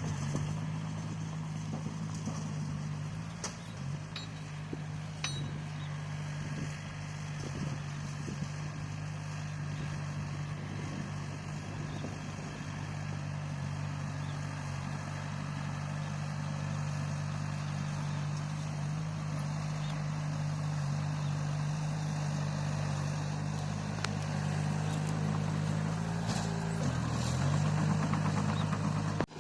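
Bulldozer's diesel engine running at a steady pitch, dipping briefly near the end and coming back up.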